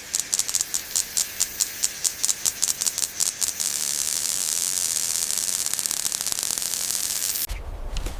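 Insect chorus buzzing: a high, rapid pulsing of about eight beats a second that merges after about three and a half seconds into a steady high hiss, which cuts off suddenly near the end.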